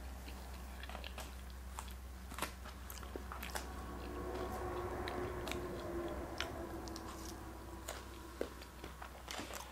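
Close-up chewing of salad, with scattered crisp crunches. A fork clicks and scrapes in a paper bowl as greens are picked up.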